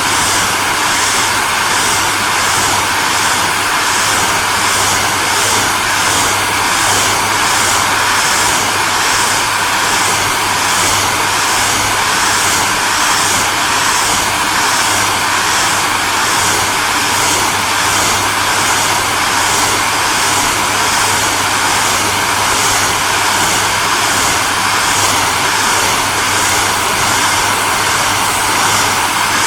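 Hairdryer running steadily: an even rushing hiss of blown air over a low motor hum, with a faint regular pulsing in the upper hiss.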